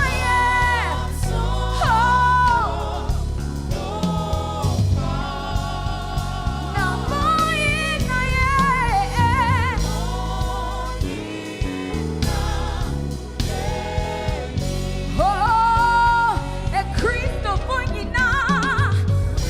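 Gospel worship song with a choir singing over a band with bass and drums.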